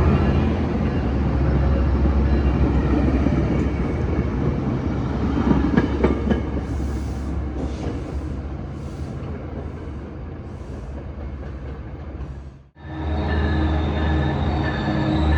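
Diesel locomotive running at close range, a steady engine hum with a few clacks of wheels over rail joints about six seconds in. The sound cuts out abruptly near the end and comes back as a steady engine hum with a thin high squeal.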